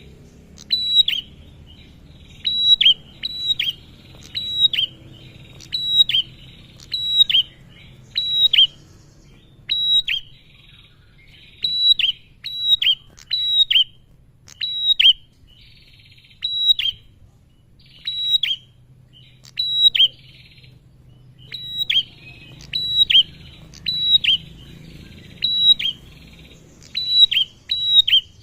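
Male prenjak (a prinia) singing loud, sharp chirps, each note dropping quickly in pitch, repeated in quick pairs and triplets about once a second.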